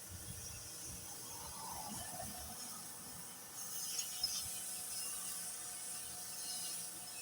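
Faint rubbing and scraping of paint being spread over the motorhome's side, with two sharp clicks about four seconds in.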